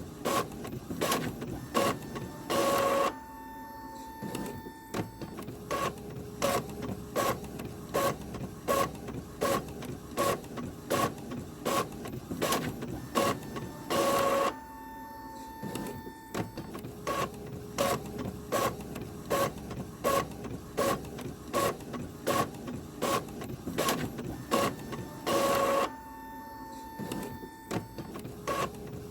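Printer running through a print cycle: rapid irregular clicking and ticking of its mechanism with brief motor whines, and a longer loud rush about every 11 seconds, the same cycle repeating three times.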